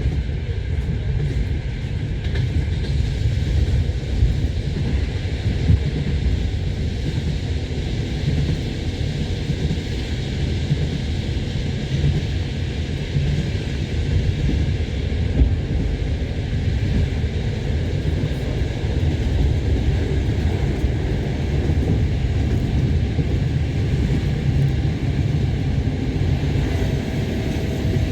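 Passenger train running along the track: a steady rumble of wheels on rails heard from inside the carriage, with a few brief louder knocks.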